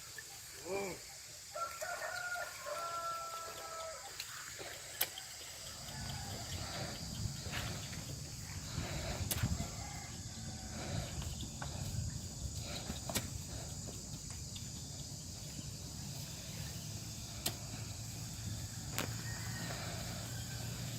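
A rooster crowing once, one long held call about two seconds in. From about six seconds on, a low steady rumble with a few sharp clicks.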